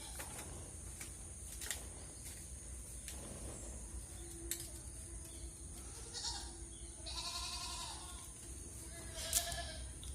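Goats bleating in a goat shed: a few calls, the longest about seven seconds in, over a steady background hum with scattered clicks.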